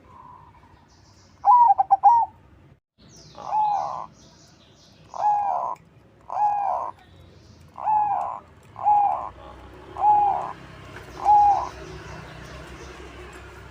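Perkutut crossing (zebra dove) singing: a quick stutter of short notes, then a run of about eight cooing notes, each bending up and down, spaced about a second apart.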